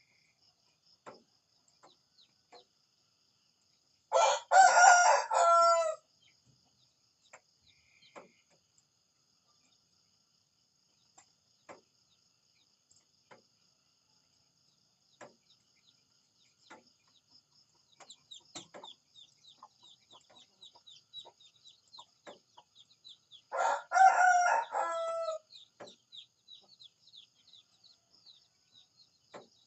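Rooster crowing twice, each crow about two seconds long and some twenty seconds apart. Between and around the crows, faint quick falling chirps of small birds.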